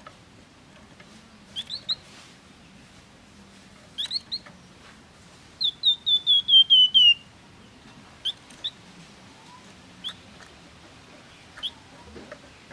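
Flamboyan songbird singing short, high, clear whistled chirps in pairs and threes. About halfway in comes its loudest phrase, a quick run of about eight notes stepping down in pitch, followed by spaced single chirps.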